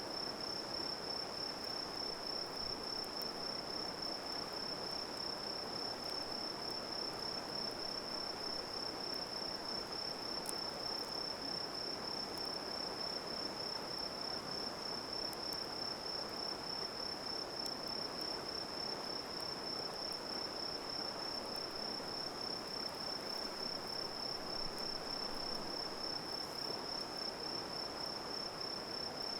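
Insects trilling in one steady, unbroken high-pitched note, over an even rushing background hiss, with a few faint crackles from the campfire.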